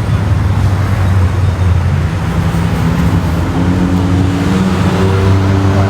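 Car engine running close by with a deep, steady rumble, its pitch stepping up slightly about halfway through.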